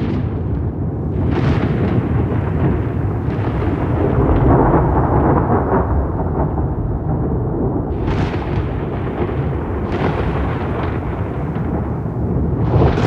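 Rolling thunder, a continuous deep rumble with sharper crackling peals breaking through every few seconds.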